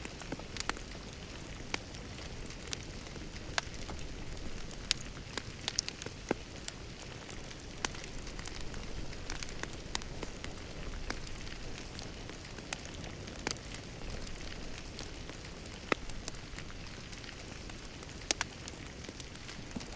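Wood fire crackling in a fireplace: irregular sharp pops and snaps, a few louder ones, over a steady low rustle.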